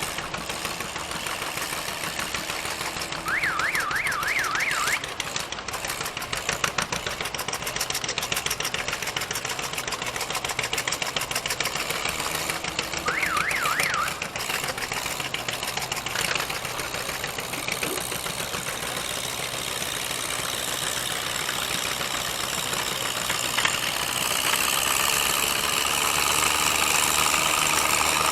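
Gas tractor engine running with a rapid, even firing clatter, getting louder near the end. A warbling high electronic tone sounds twice, briefly, once a few seconds in and again about halfway through.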